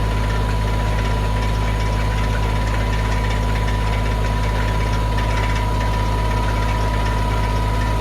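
Mahindra 1626 compact tractor's three-cylinder diesel engine running steadily at raised throttle, with the PTO engaged to drive the post hole digger, and a steady whine over the engine hum.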